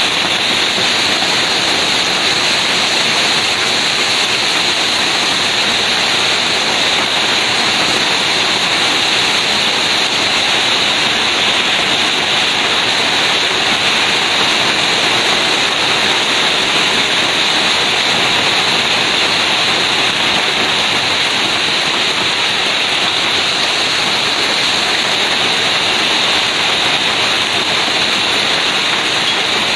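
Heavy rain in a hailstorm: a dense, steady rush of falling water that holds even throughout, with no single impacts standing out.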